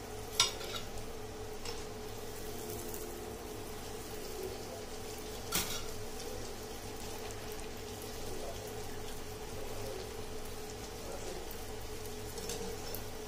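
Poori paratha frying in hot oil: a steady sizzle over a steady hum, with two sharp clicks, the louder about half a second in and another near six seconds.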